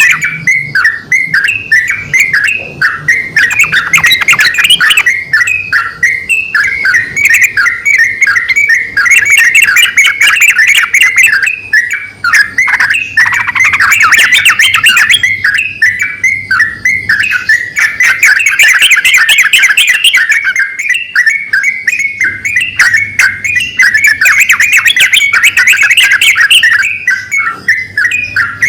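A male and a female yellow-vented bulbul (trucukan) calling back and forth in a loud, unbroken stream of quick notes, with only brief dips.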